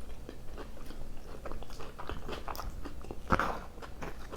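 Close-miked chewing of food: irregular wet mouth clicks and smacks, the loudest a little past three seconds in.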